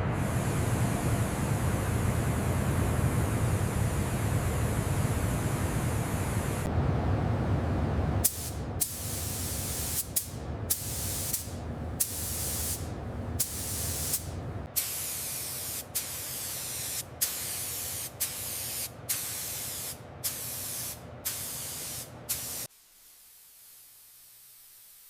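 Pressurized spraying: a long continuous hiss, then a quick run of short spray bursts, each starting with a click, cutting off suddenly near the end.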